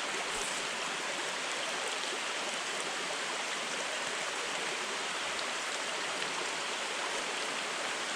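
Steady rushing of a small mountain stream's running water, with rain falling.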